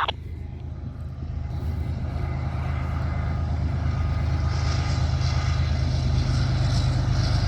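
Diesel locomotive engines of an approaching freight train: a steady low drone that grows steadily louder, with a hiss rising in the upper range from about halfway through.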